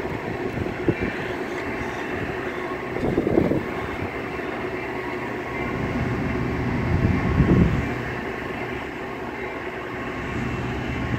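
Metra bilevel commuter train rolling along the rails as it pulls into the station: a steady rumble of wheels on track, swelling louder twice, about three and seven seconds in.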